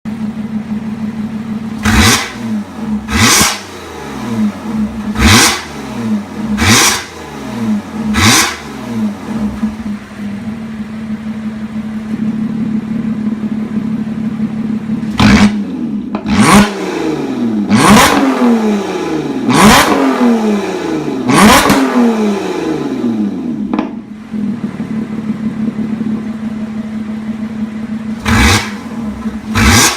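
Lotus Exige S engine through a Kreissieg aftermarket exhaust, idling and then blipped in quick throttle revs, each one dropping back to idle. There are five revs starting about two seconds in, a spell of idle, five more around the middle, and two more near the end.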